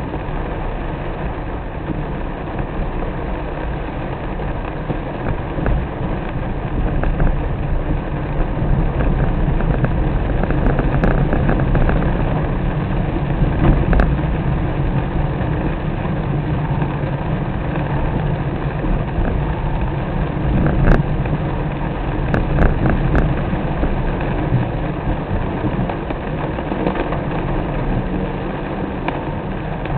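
Car engine and road noise while driving in rain: a steady low rumble, with a few sharp ticks about a third of the way in and again past the middle.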